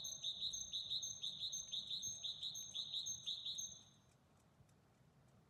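A bird chirping: a rapid series of short, high, repeated notes, several a second, that stops a little before four seconds in.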